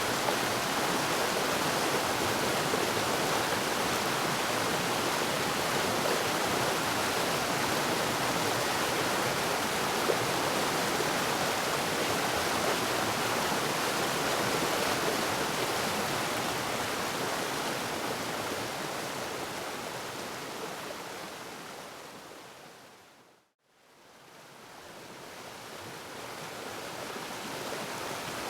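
Waterfall rushing in a steady, even roar of falling water. About three-quarters of the way through it fades out to silence and then fades back in over a few seconds.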